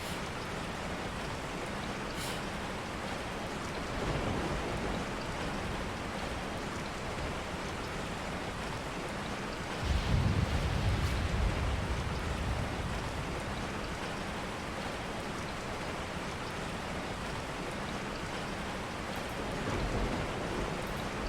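Steady rain falling. Three low rumbles rise out of it: one about four seconds in, a louder one lasting a couple of seconds about ten seconds in, and one near the end.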